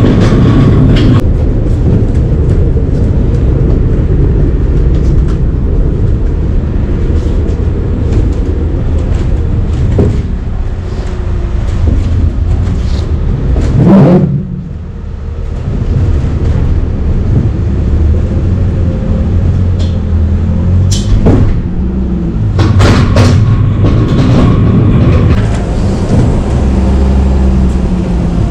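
Semi-truck diesel engine running under way, a steady low rumble, with a few sharp knocks and clunks in the middle and latter part.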